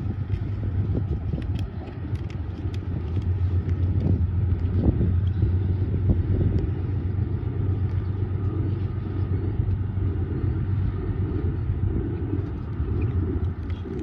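Metro-North passenger train rolling past, a steady low rumble and hum with scattered clicks from the wheels on the rails. It is loudest in the middle and eases off near the end.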